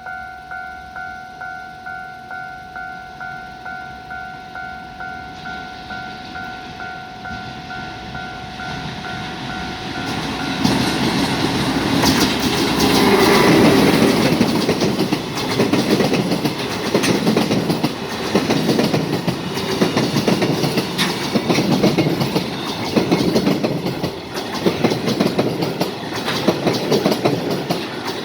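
A level-crossing warning bell dings steadily, about one and a half strokes a second. About ten seconds in, a freight train led by an EF510 'Red Thunder' electric locomotive arrives and drowns it out, loudest as the locomotive passes. The wagons then roll by with a steady rhythmic clickety-clack of wheels over rail joints.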